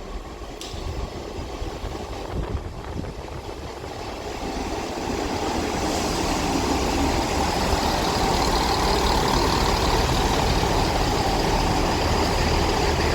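Diesel engines of a double Class 158 diesel multiple unit running at the platform, rising in level over the first several seconds and then running steadily at idle.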